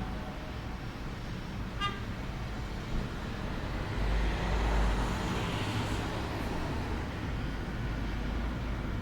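Road traffic noise, steady and low, with a vehicle passing and swelling in loudness about four to six seconds in, and a brief pitched tone about two seconds in.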